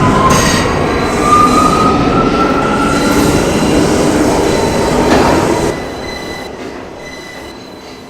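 R179 subway train running through the tunnel with a steady rumble and its wheels squealing on the rails, the squeal's pitch rising slowly. About two-thirds of the way in the sound drops off and keeps fading.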